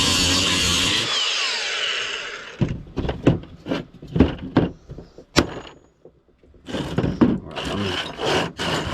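A loud steady noise that cuts off about two and a half seconds in, followed by a run of sharp knocks and clanks from scrap being handled and broken apart by hand.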